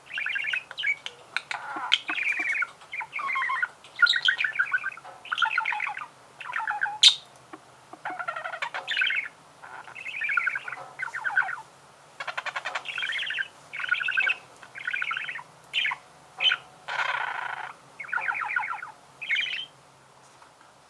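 Budgerigar warbling and chattering: a quick string of short, buzzy chirping phrases mixed with clicks, stopping shortly before the end.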